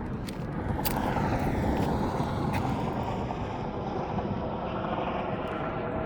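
Highway traffic going past: a steady rushing vehicle noise that swells about a second in and then holds.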